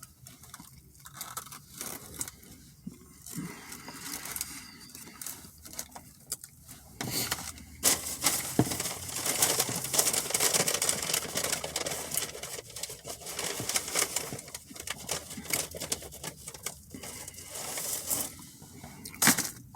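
Paper or foil food wrapping being handled and crinkled, with irregular rustles, tearing and scraping that come and go.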